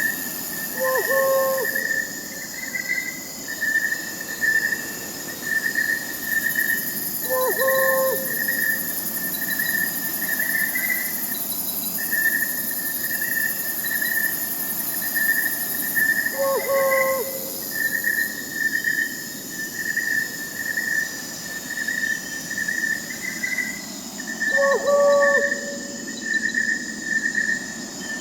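Crickets chirping in a steady pulsing trill over a high insect hiss, while an owl hoots four times, a short low call every several seconds.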